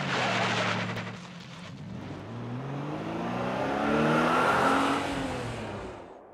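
Car engine running at speed, then revving up in a rising pitch over a few seconds as the car hits the jump. The rev peaks about four and a half seconds in, fades, and cuts off abruptly near the end as the car leaves the ramp.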